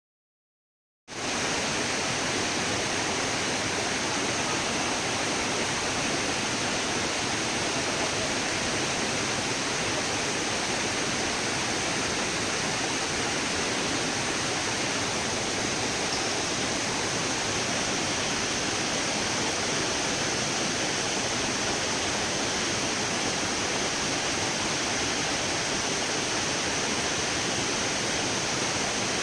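Steady rush of falling water, a waterfall or fast stream, that starts abruptly about a second in after dead silence and holds an even level.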